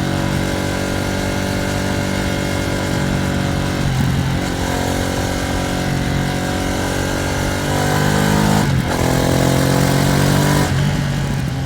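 Ducati Streetfighter V2S motorcycle's V-twin engine pulling under gentle acceleration, its pitch climbing steadily and dropping at upshifts about four seconds in, near nine seconds and near eleven seconds. The engine is being run in.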